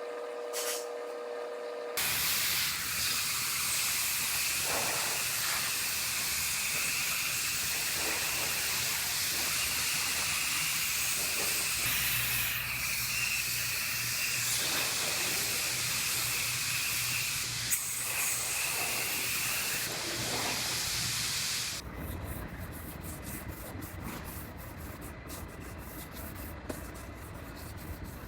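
Compressed air hissing from a pneumatic tool in a body shop, steady for about twenty seconds with a few brief changes, then cutting out and leaving a quieter crackling noise near the end.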